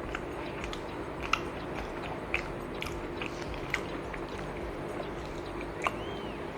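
A person chewing and biting food close to the microphone, with a few sharp wet mouth clicks, over a steady low hum.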